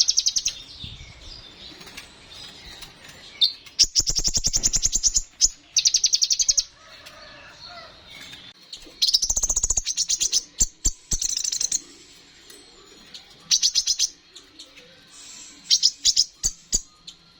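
Kolibri ninja (sunbird) singing in repeated bursts of very fast, high, buzzy trills, each lasting up to a few seconds, with short pauses between them. There are a few sharp clicks and low thumps among the trills.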